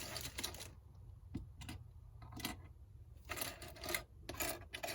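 Small LEGO plastic pieces and minifigure parts being handled: a short rummaging rustle, then a string of separate light clicks and clatters.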